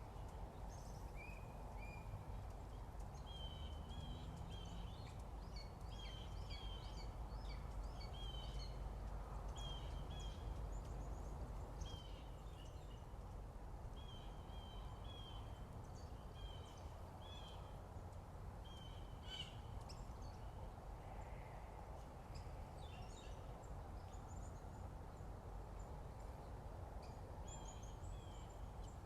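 Morning birdsong: several birds giving many short, repeated chirping notes throughout, over a steady low background rumble.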